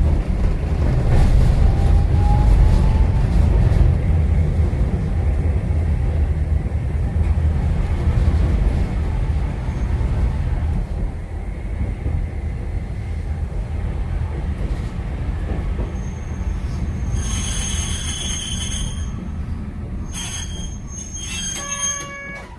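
Streetcar running on its track, heard from inside the car: a loud, steady low rumble of wheels and running gear, then a high-pitched wheel squeal for about two seconds near the end.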